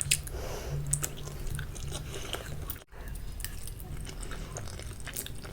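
Close-miked eating sounds: chewing and biting of spicy instant noodles, with many short sharp mouth clicks over a low steady hum. The sound breaks off for a moment about three seconds in.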